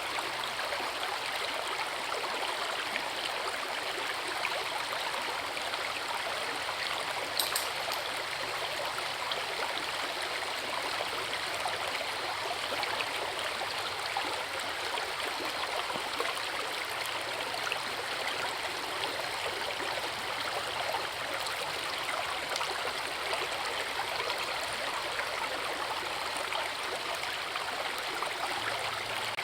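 Forest river rushing and splashing over a small waterfall, a steady even water noise, with one brief sharp click about seven seconds in.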